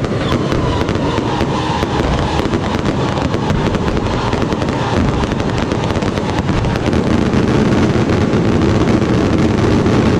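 A fireworks barrage: many small shells and rising comets going off in quick succession, a dense, continuous crackling and popping.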